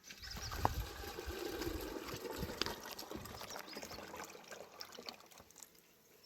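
Water pouring and trickling, starting suddenly and tapering off over a few seconds, with a few small clicks.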